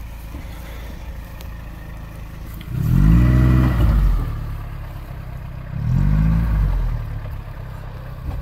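Two-door Suzuki Vitara's engine running at low revs while crawling off-road, revved up and back down twice, about three seconds in and again about six seconds in, the first rev the louder.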